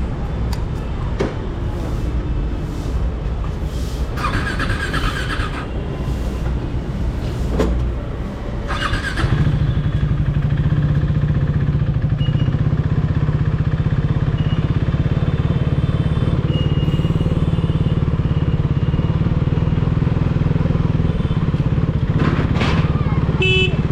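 KTM Duke 390's single-cylinder engine running through an aftermarket dual exhaust. About nine seconds in it settles into a louder, steady low drone that holds. Two brief high-pitched tones sound before that, around four and nine seconds in.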